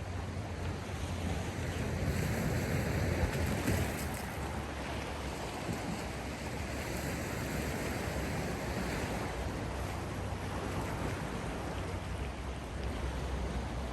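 Sea waves washing in, a steady rushing that swells louder for a couple of seconds near the start.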